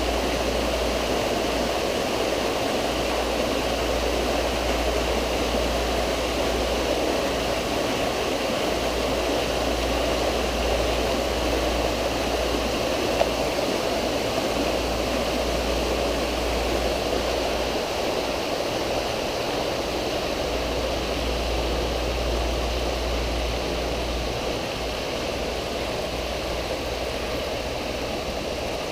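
Steady rush and splash of water falling into a swimming pool from its water features (rain curtain, water bowls and laminar jets), with a low rumble that comes and goes.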